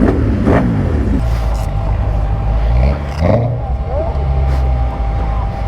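Vehicle engines running, with a low steady hum and a brief rise in pitch about three seconds in, with voices mixed in.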